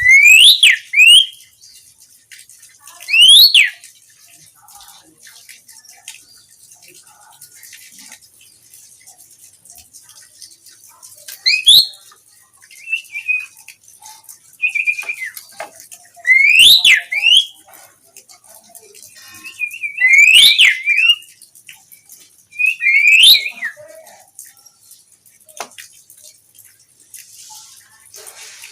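Pied starling (jalak suren) giving loud whistled calls: sharp notes sweeping up and down in pitch, in short bursts a few seconds apart.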